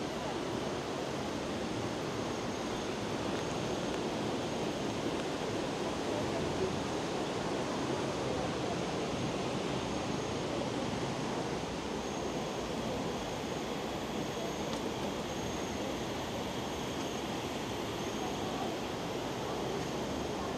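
Steady rush of running river water, with a faint high, thin insect whine above it.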